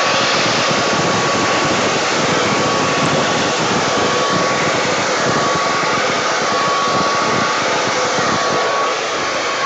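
Hair dryer running steadily on the wet paint of a dutch pour, a rushing blow with a thin steady whine; it is switched off near the end.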